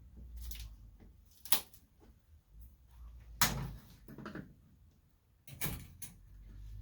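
A series of sharp clicks and knocks, about six spread over several seconds: tools and car body parts being handled and knocked while the front end of a classic Mini is taken apart. The loudest come about a second and a half in and again near the middle.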